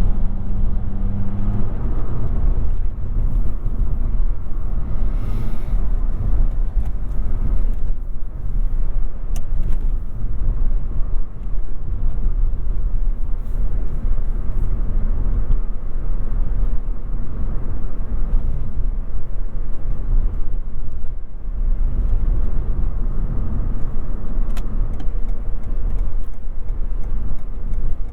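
Inside the cabin of a Toyota Yaris 1.5 hybrid on the move: steady low road and tyre rumble. A steady engine hum stops about a second and a half in, leaving only the rolling noise.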